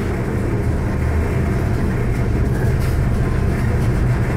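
Diesel locomotives of a freight train running steadily a few cars ahead: a loud, even low engine drone over rumbling noise.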